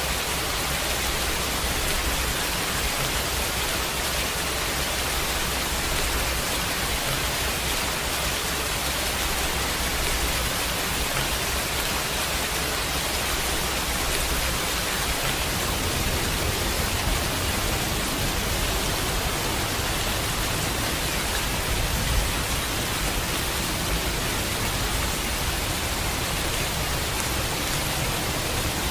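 Steady heavy rain, a dense even hiss, with a low rumble underneath that grows slightly stronger past the middle.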